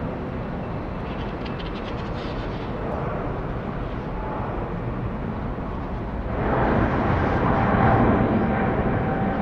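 Jet airliner engine noise at an airport, a steady rush that suddenly grows louder about six seconds in, with a faint whine over it.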